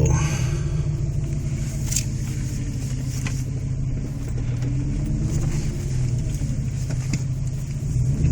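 2006 Jeep Grand Cherokee's 5.7-litre Hemi V8 with a resonator-delete custom side exhaust, heard inside the cab while driving off: a steady deep exhaust drone that rises and falls slightly in pitch.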